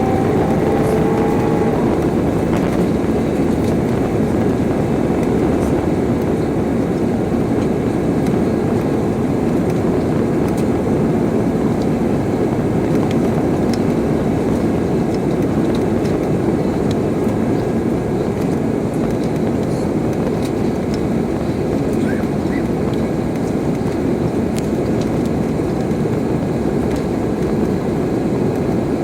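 Cabin noise of an Airbus A320-216 during takeoff: its CFM56 jet engines at high thrust and the airflow make a loud, steady, even rumble.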